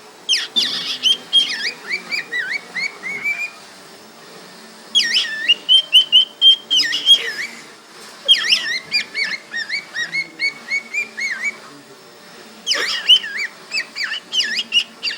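Cockatiel whistling and chattering in three bouts of quick, wavering chirps and warbles, with short pauses between them.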